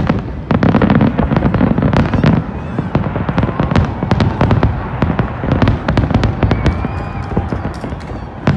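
Fireworks display in full volley: many sharp bangs and cracks in quick succession over a continuous booming rumble, densest and loudest in the first two seconds or so, then carrying on a little less thickly.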